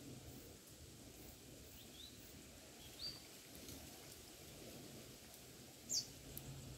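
Faint outdoor ambience with a few short, high bird chirps: small rising chirps about two and three seconds in, and a louder falling chirp about six seconds in.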